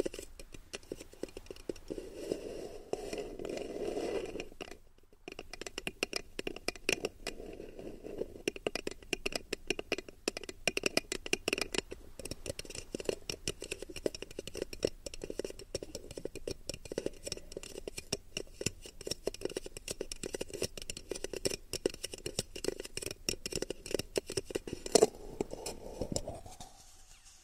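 Fingertips flicking and tapping on an ASMR ear microphone: a dense, irregular stream of quick crackling taps close to the mic, with a brief pause about five seconds in.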